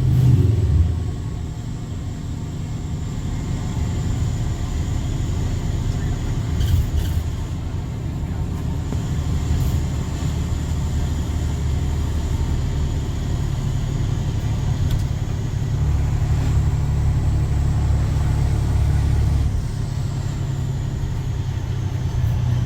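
Straight-piped Cummins C8.3 inline-six turbodiesel in a school bus, its exhaust a deep steady rumble under way. It swells loudly right at the start, grows heavier for a few seconds past the middle, then eases off shortly before the end.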